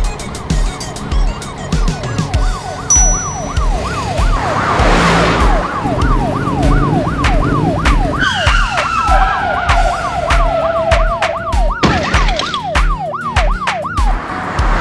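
Police siren in fast yelp mode, its pitch sweeping up and down about three times a second, starting about a second in and stopping just before the end, over background music with a steady beat. A whoosh sounds about five seconds in, and a long tyre screech about eight seconds in as the police car skids.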